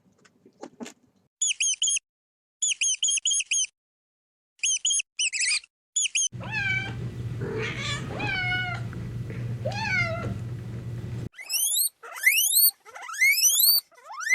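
Several separate animal-call clips. First, short bursts of rapid high-pitched chirping. Then a kitten meowing several times for about five seconds over a steady low hum. Near the end, quick rising squeaky chirps.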